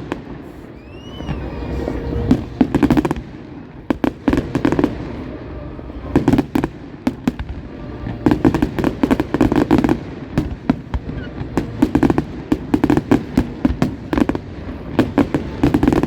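Fireworks display: a dense run of bangs and crackling pops, with a short whistle that rises and falls about a second in.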